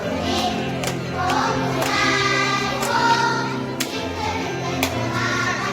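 Kindergarten children's choir singing a Korean children's song (dongyo) together, over instrumental accompaniment with a sharp beat about once a second.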